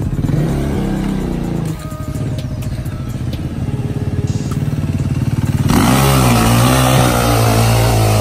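450cc dirt bike engine running: it revs up in pitch briefly, settles into a quicker, even running, then about six seconds in turns suddenly louder and harsher and holds there.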